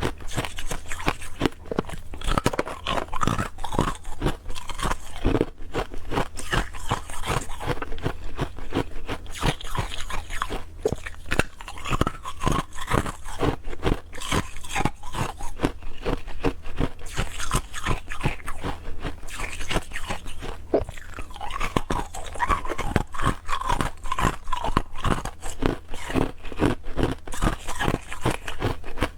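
Clear ice cubes being bitten and chewed close to the microphone: a steady run of hard, irregular crunches.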